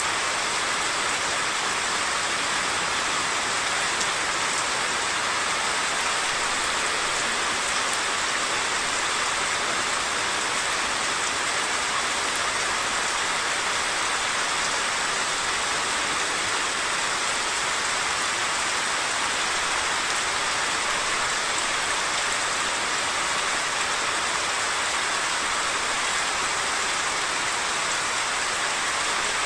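Heavy monsoon rain pouring steadily, an even hiss of rain on surfaces, mixed with the rush of a swollen, flooding stream.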